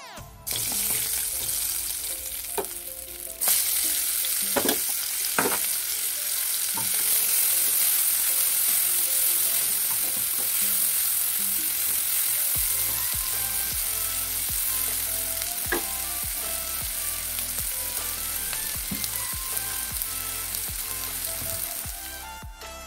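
Hot oil sizzling in a nonstick wok, first around bay leaves and cardamom, then louder about three seconds in once sliced onions are frying. A spatula stirs them, with occasional scrapes and knocks against the pan.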